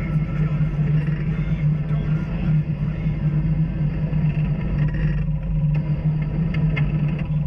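Off-road vehicle engine running steadily on the trail, a constant low drone with rumble, with a few brief rattles or knocks near the end.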